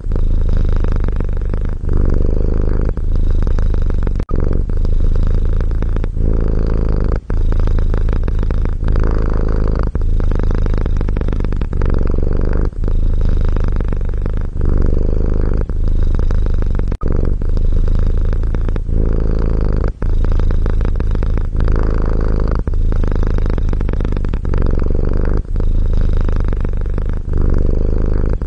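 Domestic cat purring loudly and steadily, the purr swelling and easing with each breath about every second and a half, with brief breaks between breaths.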